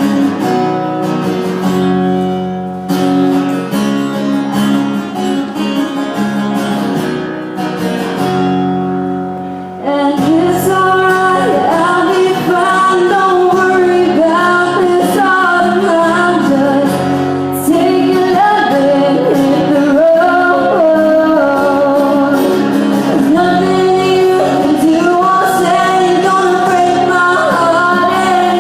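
Acoustic guitar playing chords alone for about ten seconds, then a woman begins singing over it: a live country song with a single acoustic guitar accompanying the voice.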